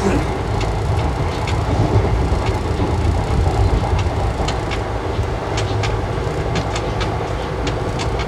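Passenger train coach rolling along the track, heard from inside: a steady low rumble with scattered sharp clicks and rattles.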